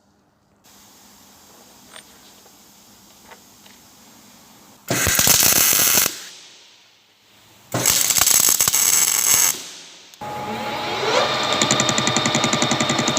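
Machine-shop power tools: two short bursts of loud, rapid rattling. Near the end a motor spins up with a rising whine and keeps running with a fast, even beat.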